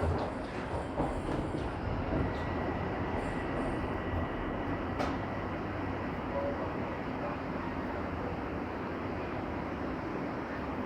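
Toronto subway train running as it pulls into a station, heard from inside the car: a steady rumble and rail noise. A faint high whine runs for a few seconds early on, and there is one sharp click about five seconds in.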